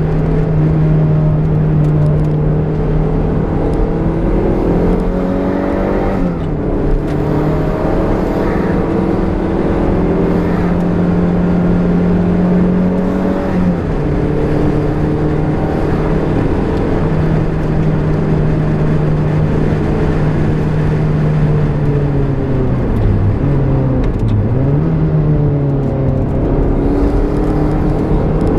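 Turbocharged Toyota MR-S's 1.8-litre four-cylinder engine pulling hard on track, heard from inside the cabin. The engine note holds steady for long stretches, falls and climbs again a few times, and dips sharply twice near the end as the car lifts off and picks up again through the corners.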